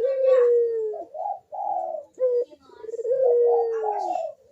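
Puter (Barbary dove) cooing in its repeated 'kuk-deruk' song: two long falling coos, one at the start and one about three seconds in, with shorter clipped coo notes between them.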